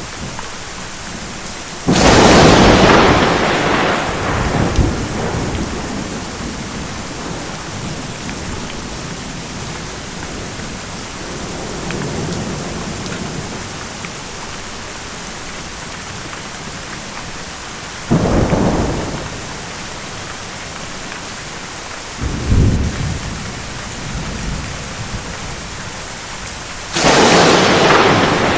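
Steady rain with repeated thunder. A loud, sudden thunderclap comes a couple of seconds in and rolls off over a few seconds. A fainter rumble follows midway, then another crack, then a low rumble, and a second loud clap near the end.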